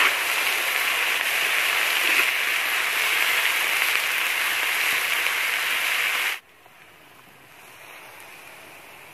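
Chopped sea leech sizzling loudly in a hot wok as it is stir-fried, with a few faint scrapes of the metal spatula. About six seconds in the sizzle cuts off sharply to a much fainter sizzle.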